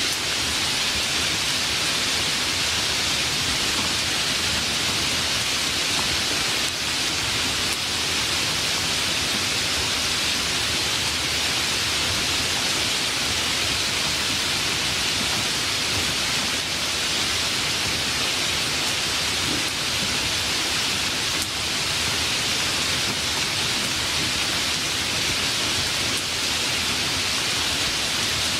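Steady heavy rain: an even, unbroken hiss of falling rain.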